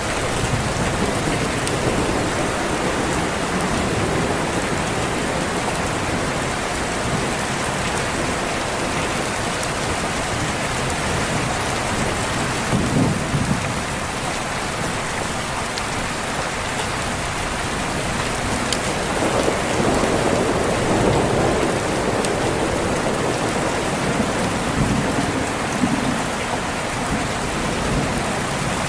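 Steady rain with thunder rumbling low, once briefly about halfway through and again at more length through much of the second half.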